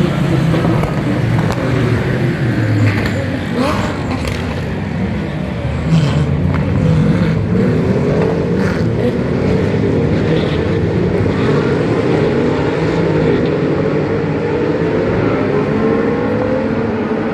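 GT race cars running on track, several engines at once, their pitch rising and falling as they accelerate and brake through the gears, with a few sharp cracks in the first half.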